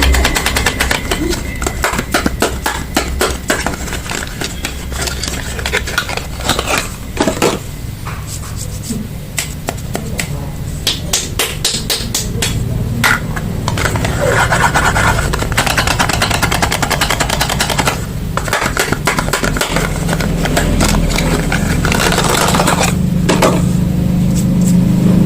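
Soap packaging being unwrapped: wrappers crinkling and crackling with many quick sharp clicks, over a steady low drone.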